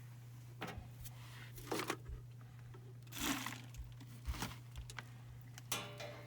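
Scattered light clicks, taps and rustles of hands handling small furnace parts, removing a limit switch from an induced draft motor to move it to the replacement motor, over a steady low hum.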